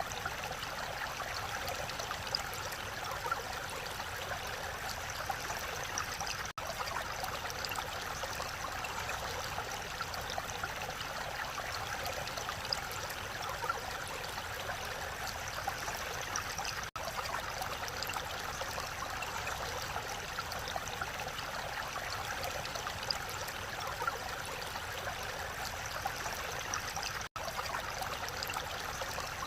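Mountain valley stream rushing steadily over rocks, a constant even wash of water. It cuts out for an instant three times.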